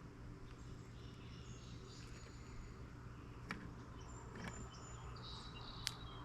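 Faint bird chirps and short high whistled calls at a bird feeder, with a couple of sharp clicks over a steady low background hum.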